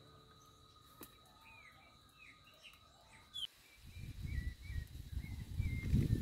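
Birds chirping with short, repeated calls, faint at first. From about four seconds in, a low, irregular rustling and buffeting noise builds up and becomes the loudest sound.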